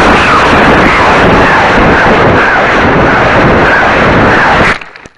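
Water rocket pressurised to 102 psi launching: a sudden, very loud rushing hiss of escaping air and water that holds steady and cuts off near the end.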